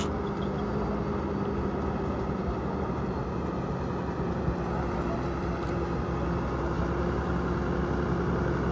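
Motor vehicle engine running steadily, a constant low drone with a steady hum in it.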